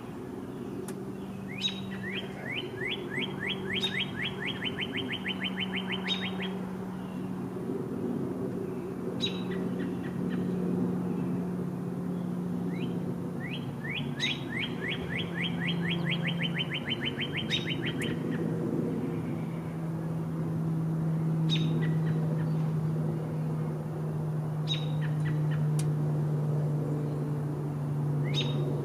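A bird singing two slow trills of repeated, down-slurred notes, each about four seconds long, with single sharp chip notes in between, over a steady low hum.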